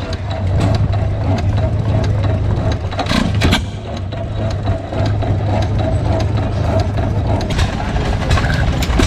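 An engine running steadily with an even low hum, and a few sharp clicks about three seconds in.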